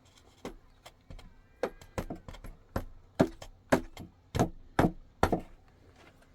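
Hammer blows on wood, a run of sharp knocks about two a second, faint at first and louder from about a second and a half in.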